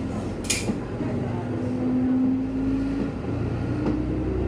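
Diesel railcar running, heard from inside the car: a steady low rumble with an engine whine that rises slightly in pitch. A short sharp hiss comes about half a second in.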